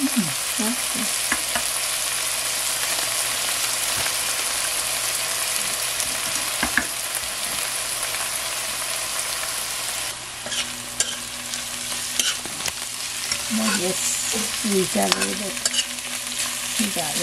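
Onions, garlic, pimento peppers and seeds sizzling steadily in oil in a heavy pot on low heat. About ten seconds in the sizzle drops, and a slotted metal spoon clicks and scrapes against the pot as the mixture is stirred.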